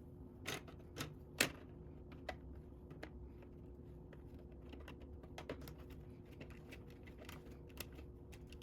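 Plastic Lego pieces clicking and tapping as they are handled and pressed together: a few sharper clicks in the first second and a half, then lighter scattered ticks.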